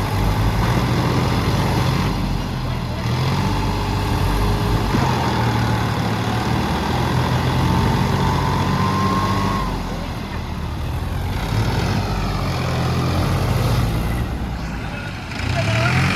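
Tractor diesel engines running hard under load, their revs stepping up and down, with a faint whine rising slowly through the middle; the level dips briefly twice near the end.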